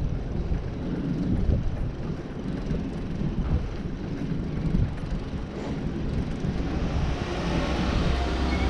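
Steady low rumble of wind and road noise outdoors, growing a little louder near the end.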